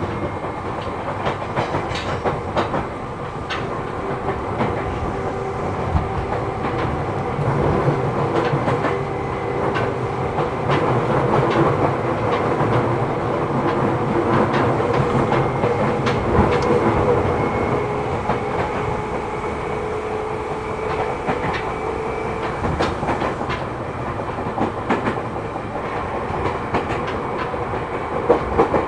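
Seibu New 2000 series electric train running between stations, heard inside the passenger car: a steady rumble of wheels on rail, broken by frequent sharp clicks and knocks from the rail joints and the wheel flats on this car.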